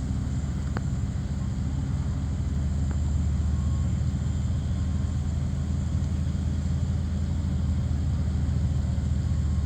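Fire engine's diesel engine running steadily at pumping speed, driving its pump to feed a high-pressure hose stream; a steady low rumble.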